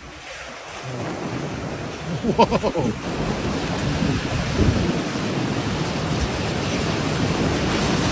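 Steady rushing storm noise of heavy rain and wind. A brief voice sounds about two and a half seconds in.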